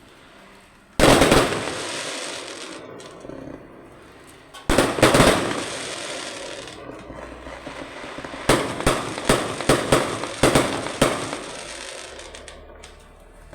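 Fireworks exploding: a sharp bang about a second in followed by a long crackling fade, another burst of cracks near five seconds, then a quick run of about seven bangs between eight and eleven seconds.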